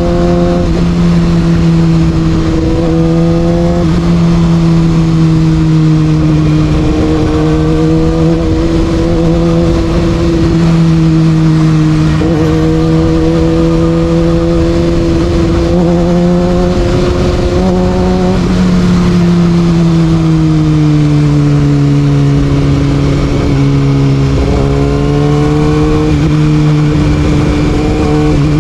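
Kawasaki Ninja ZX6R inline-four through an Austin Racing exhaust, running under way at a fairly steady high pitch, the note dipping briefly and rising again a few times.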